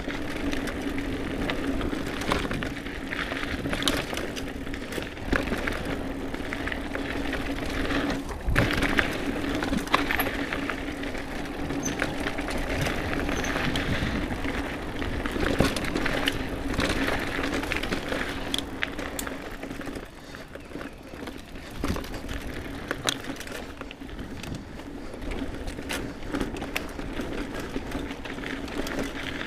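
Mountain bike riding over dirt singletrack: tyres rolling with a steady low hum, broken by frequent knocks and rattles from bumps in the trail.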